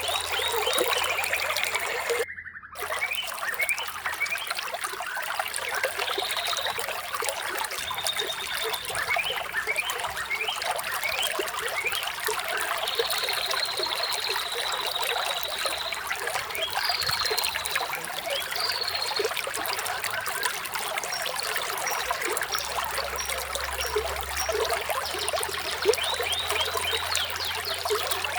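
Flowing water trickling steadily, with birds chirping over it in short calls and trills. The sound breaks off for about half a second a little over two seconds in.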